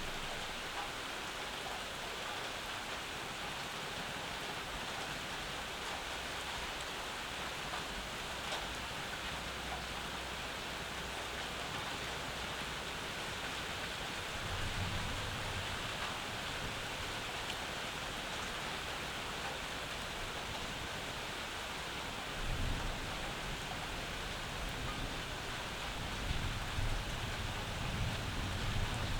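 Steady summer rain falling, with low rumbles swelling up briefly about halfway through and again in the last few seconds.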